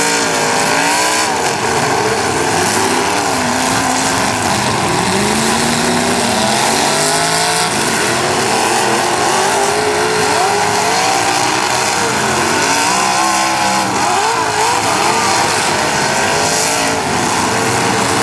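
Several demolition derby cars' engines revving up and down at once, loud and continuous, with their pitches rising and falling against each other.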